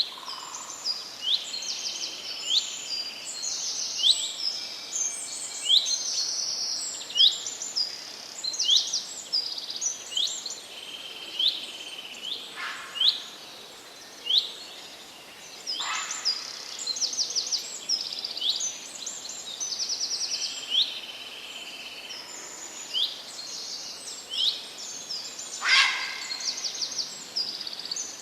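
Several songbirds chirping and trilling, many short upswept notes and quick trills overlapping, over a steady hiss of background noise. Three brief sharp sounds cut through, the loudest near the end.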